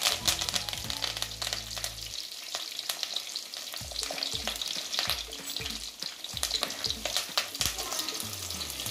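Chopped shallots, garlic and curry leaves sizzling and crackling in hot oil in a clay pot, stirred with a wooden spatula that scrapes and clicks against the pot.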